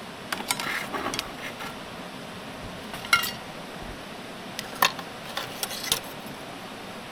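Light clinks and clatter of small hard objects being handled: a handful of short knocks, the sharpest about three and about five seconds in, over a steady hiss.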